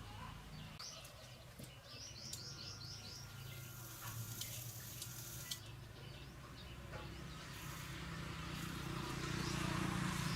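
Small birds chirping, with a quick run of about six short high notes, over scattered light clicks and a low hum that grows louder near the end.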